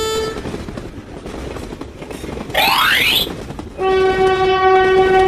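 A horn sounding over a steady rumbling noise: a short blast cuts off just after the start, and a long, steady blast begins about four seconds in. A quick rising whistle comes about two and a half seconds in.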